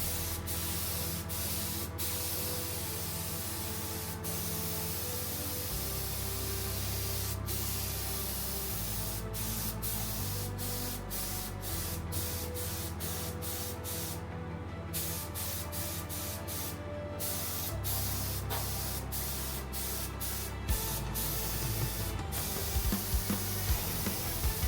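Paint being sprayed onto a car's underbody, a steady spray hiss that stops briefly twice midway, over background music with sustained low notes.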